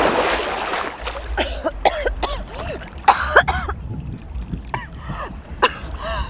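A loud rush of noise at the start, then a person coughing and clearing their throat in several short bouts.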